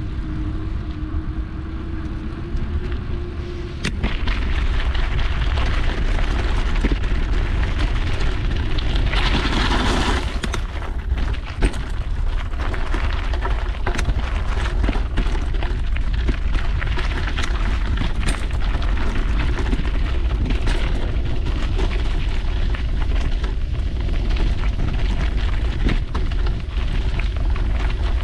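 Wind rumbling on an action camera's microphone over the rattle and knocks of a mountain bike rolling over a rough trail. It gets louder about four seconds in, with many short bumps and clicks throughout.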